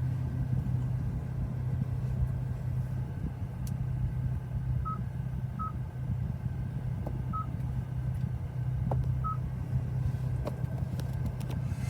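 Hyundai i20N's infotainment touchscreen giving short, high confirmation beeps as it is tapped, four in the middle stretch. Under them is a steady low hum in the car's cabin.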